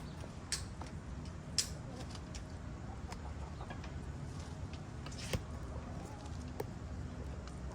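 Chickens clucking a few times, short and sharp, over a steady low rumble.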